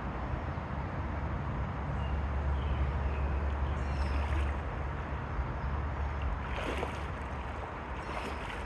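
Steady rush of creek water with a low rumble of wind on the microphone, the rumble heaviest for a few seconds in the middle.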